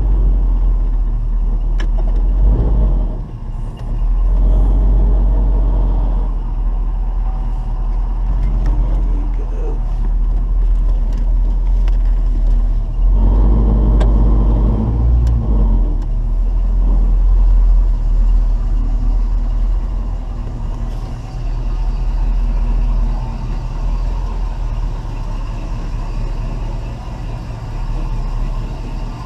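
1972 Chevy Nova's 350 small-block V8 running at low speed while the car is backed up in reverse, its note swelling and easing a little.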